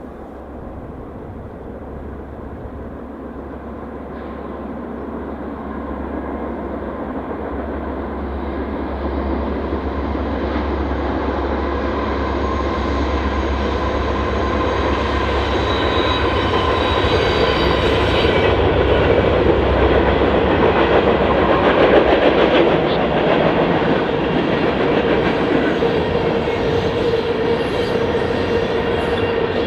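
A train approaching and passing. The low drone of its diesel locomotives builds for about twenty seconds and then drops away, leaving steady steel wheel-and-rail noise with some clickety-clack as the cars roll by.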